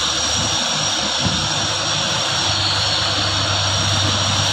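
Heavy diesel truck engine running steadily under load on an uphill climb, a low drone under a wash of engine noise, with a steady high-pitched whine above it.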